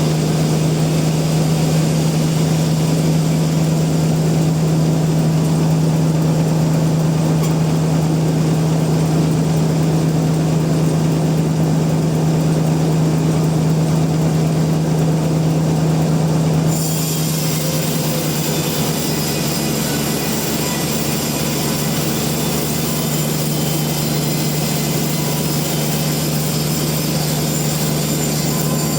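Sawmill machinery running with a steady, loud hum. About seventeen seconds in, the sound shifts and a hiss in the upper range comes in and holds.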